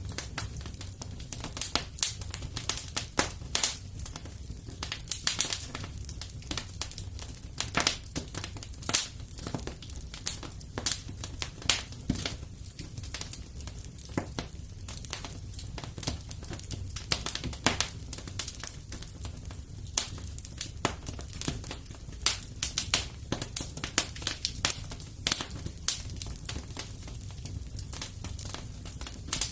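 Wood fire crackling in a fireplace: frequent irregular sharp pops and snaps over a steady low rumble from the flames.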